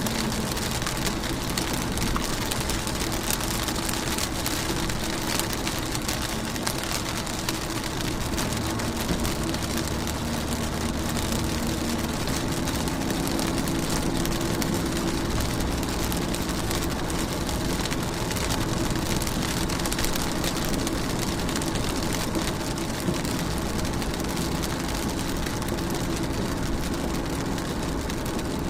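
Steady rain falling, an even hiss with no breaks, over a steady low hum.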